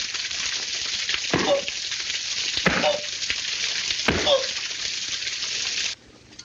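Water spraying with a steady hiss that cuts off suddenly near the end. Three short sounds, each falling in pitch, come over it about a second and a half apart.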